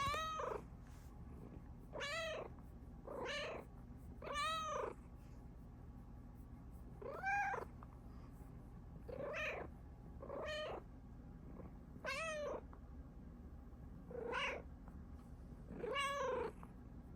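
A Bengal cat meowing about ten times, each meow short and arching up then down in pitch, one to three seconds apart.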